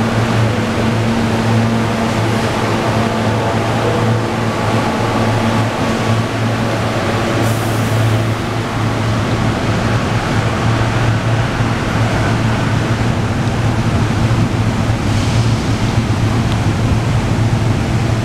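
SEPTA Regional Rail electric trains pulling out of an underground station: a steady hum with the running noise of the train under it. There are short hisses about 7 seconds in and again about 15 seconds in.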